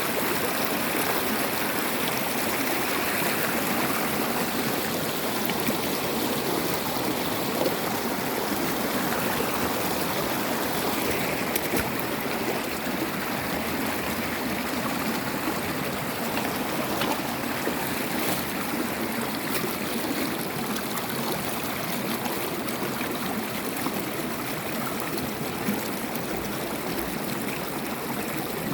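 Stream water running and splashing over rocks, a steady rush with small trickles and splashes.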